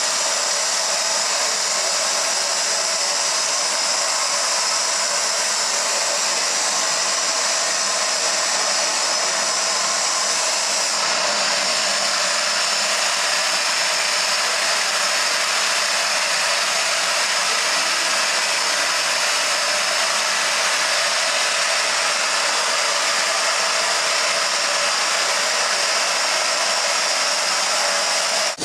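Steam locomotive venting steam: a loud, steady hiss that holds unbroken, shifting slightly in tone about a third of the way through.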